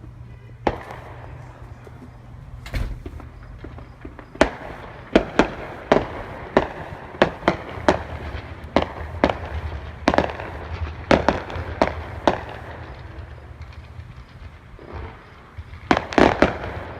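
Fireworks going off in a quick series of sharp bangs: a single bang about half a second in, then bangs roughly every half second from about four seconds to twelve seconds, and a tight cluster near the end. A steady low hum runs underneath.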